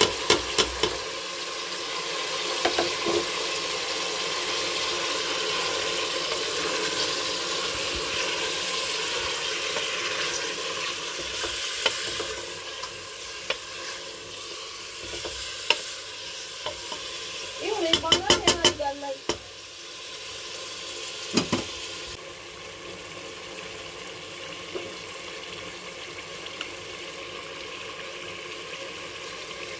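Sliced onions sizzling in hot oil with mutton in a metal pot, stirred with a wooden spatula that knocks and scrapes against the pot. The sizzle is strongest at first and dies down partway through, with a quick run of knocks about 18 seconds in.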